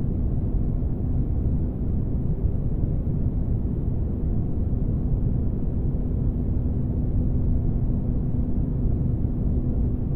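Spaceship interior ambience, a sound-designed white-noise bed: a steady deep rumble with a faint constant hum running through it.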